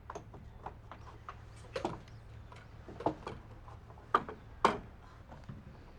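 Irregular light knocks and clicks of objects being handled and set down, with a sharper knock about four and a half seconds in.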